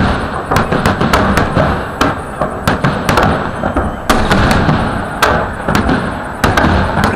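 Aerial firework shells of a salute bursting overhead in quick, irregular bangs, several a second, over a continuous crackling din.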